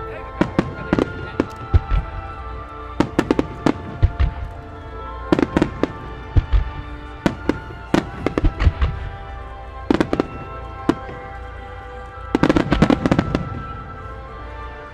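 Fireworks bursting in sharp, irregular bangs over music with held tones, with a dense run of rapid crackling bursts about twelve seconds in.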